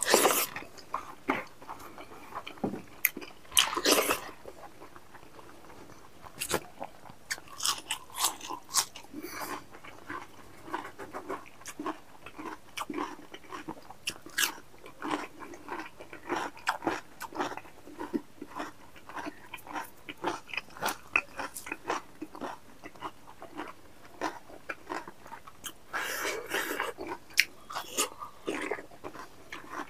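Close-miked chewing and biting of a man eating rice, meat and raw cucumber by hand, with crunchy bites, lip smacks and wet mouth clicks throughout. A few louder crunches come right at the start, about four seconds in, and near the end.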